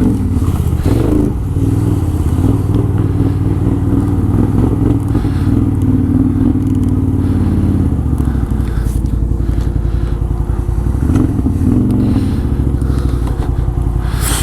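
Can-Am Outlander ATV's V-twin engine running at low speed off-road, its revs rising and falling, with some scraping and clattering.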